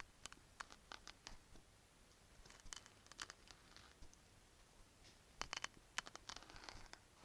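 Bracelets handled close to the microphone, clinking and rattling against each other in three short flurries of small bright clicks.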